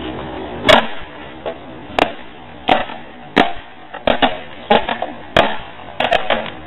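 A run of sharp knocks or taps, roughly one to two a second, some coming in quick pairs.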